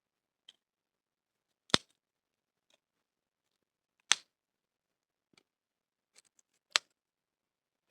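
Three sharp, loud knocks about two and a half seconds apart, with faint clicks and rustles between them.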